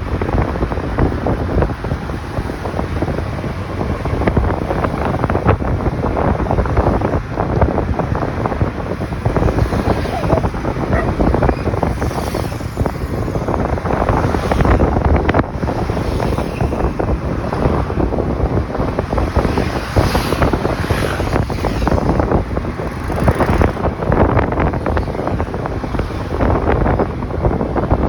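Wind buffeting the microphone of a moving motorcycle: a loud, steady rushing rumble.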